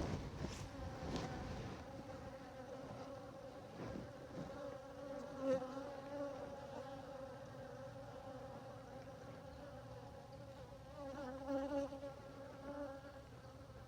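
Many honeybees buzzing in flight: a steady hum that swells briefly about five seconds in and again around eleven to thirteen seconds.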